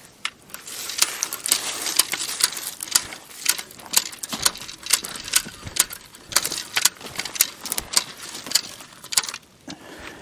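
Mingo log-marking wheel rolled along a log, its mechanism clicking rapidly and somewhat irregularly, a few clicks a second, as it marks the wood with spray paint at 18-inch intervals.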